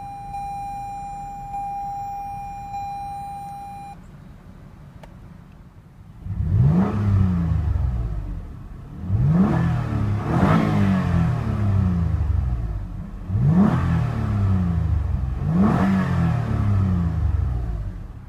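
Toyota Highlander's 3.5-liter V6 engine, just started, revved five times in quick blips that each rise and fall back to idle. A steady electronic warning chime sounds for the first four seconds.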